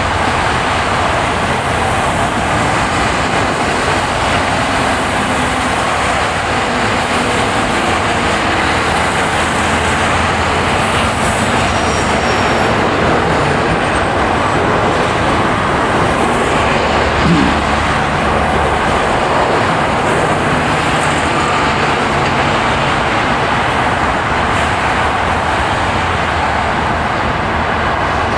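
Steady road and tyre noise of a car driving on a snowy road, with a brief short rising sound about two-thirds of the way through.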